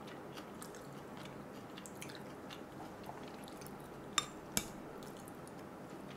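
Close-miked chewing of jjajangmyeon noodles, faint with small wet mouth clicks, and two sharp clicks a little after four seconds in.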